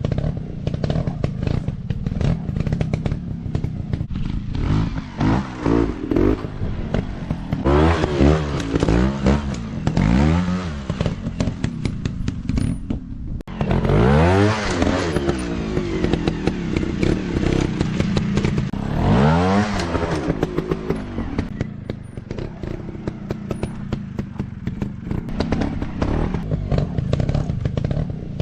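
Dirt bike engines being revved hard over and over, the pitch climbing and dropping with each throttle blip, with clattering and scraping mixed in. The revving is heaviest in the first half, and the engines settle into steadier running near the end.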